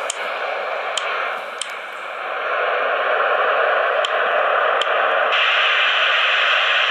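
Steady rushing jet noise of an airliner's engines, with no deep rumble. It grows louder about two and a half seconds in and turns brighter about five seconds in, with a few faint ticks.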